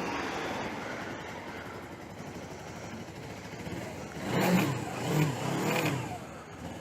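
Suzuki GS500E's air-cooled parallel-twin engine running under way over steady rushing wind noise, then revving up and falling back about three times from about four seconds in.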